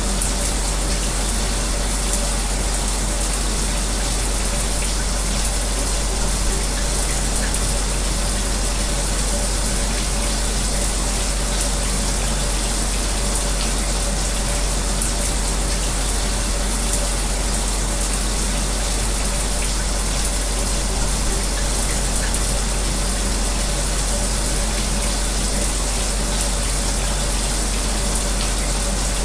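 Shower water running steadily, with an electric fan blowing alongside, making an even, unbroken hiss with a faint steady hum.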